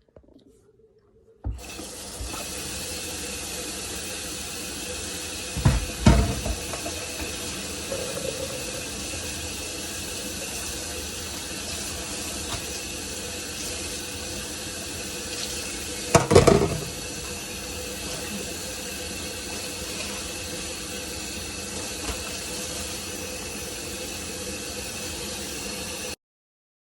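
Water running steadily from a tap into a sink, with two louder clunks about six and sixteen seconds in. It starts suddenly shortly after the beginning and is cut off abruptly near the end.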